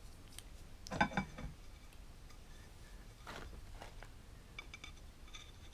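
Faint scattered clicks and small scrapes of a caliper being handled and set against an aluminium extrusion to measure its slot.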